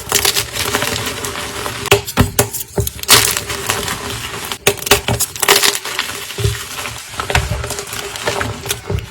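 Fresh gym chalk being crushed: a continuous crisp crunching and crackling, with louder crunches a couple of seconds in and again about halfway.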